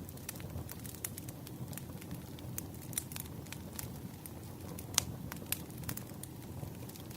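Burning firewood crackling and popping irregularly over the low, steady rumble of the flames. One sharp pop about five seconds in is the loudest.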